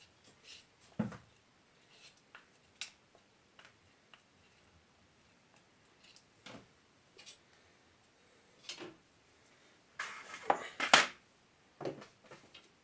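A facing brick and tools being handled on a hard surface while the brick is glued: scattered light knocks and clicks, with a louder clatter about ten seconds in.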